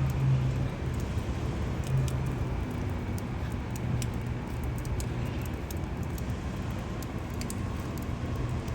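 City street ambience: a steady low mechanical hum over faint traffic noise, with light scattered ticks.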